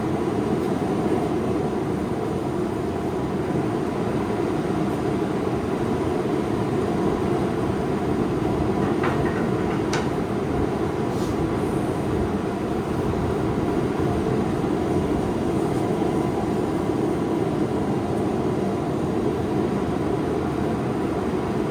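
Steady, even roar of a running forge in a blacksmith's shop, with a couple of faint clicks about nine and ten seconds in.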